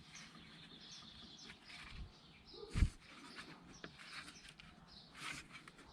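Faint high chirps in the background with light clicks of tools being handled, and a single low thump about three seconds in.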